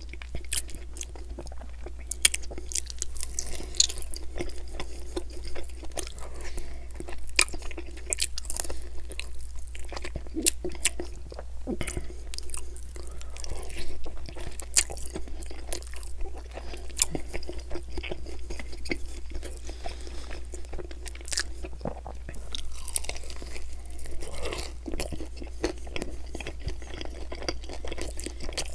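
Close-miked chewing and crunching of sauce-covered chicken wings, a steady run of small crisp clicks and wet mouth sounds, with fingers being licked and meat pulled off the bone.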